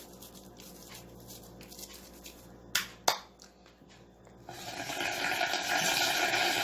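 Two sharp clicks, then running water that starts about four and a half seconds in and keeps on steadily while the toy dishes are washed.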